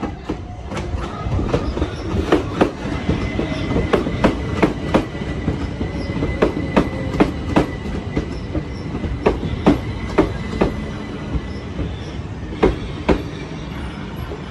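Southern electric multiple-unit passenger train running past close by, its wheels clicking again and again over the rail joints, often in pairs, over a steady rumble. A faint motor whine falls slowly in pitch through the first half, and a thin high whine holds steady for a few seconds.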